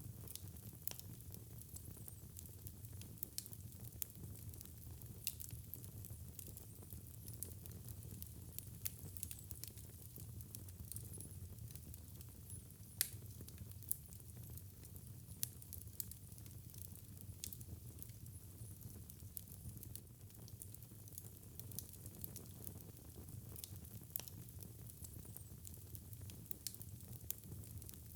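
Wood fire crackling in a fireplace: scattered sharp pops and snaps over a low, steady rumble and hiss, with one louder pop about halfway through.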